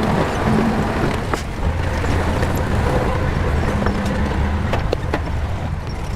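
Shantui bulldozer's diesel engine running steadily under load, with a few sharp metallic clanks.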